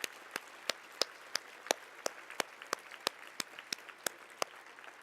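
Audience applause: a haze of many hands clapping, with crisp, regular claps about three a second standing out above it. The clear claps stop near the end and the applause dies away.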